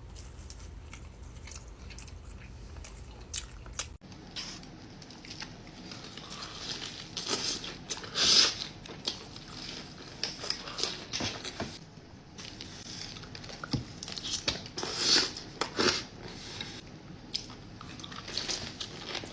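A person biting and chewing food close to the microphone, with irregular crunches and wet mouth smacks.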